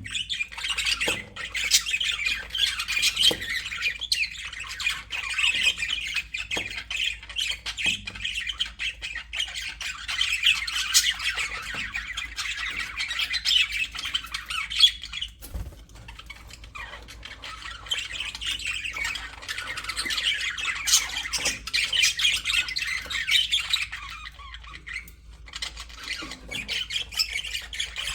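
Several budgerigars chattering, a dense stream of warbles and chirps that eases briefly about halfway through and again near the end.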